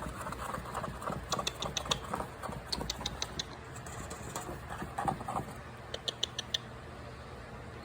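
Soft rubbing and scratching of fingers in a cat's fur, with three short runs of quick light ticks, over a low steady hum.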